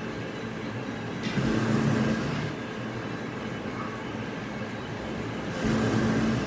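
Machinery running with a steady hum, surging louder with a hiss twice, each surge lasting about a second and the two about four seconds apart.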